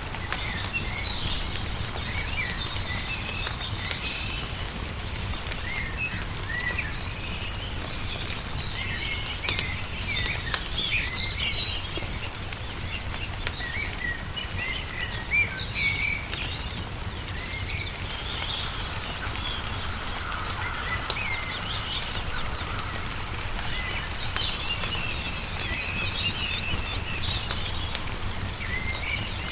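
Songbirds chirping and trilling in many short calls over the scattered pops and snaps of a crackling wood fire, with a steady low rumble underneath.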